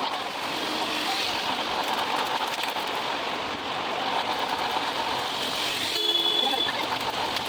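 Steady rush of water from a monsoon waterfall stream, with a short tonal sound about six seconds in.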